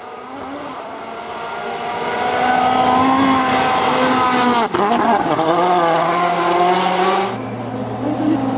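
A World Rally Car's turbocharged four-cylinder engine at high revs, growing louder as it approaches. About halfway there is a brief sharp crack as the revs dip, then they climb again.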